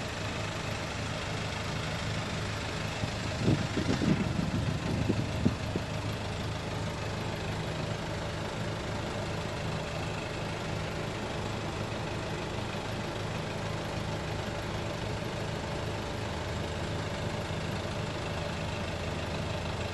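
Dump truck's diesel engine running at a steady low speed, an even hum throughout. A short rougher stretch of knocks and rattles comes about four seconds in.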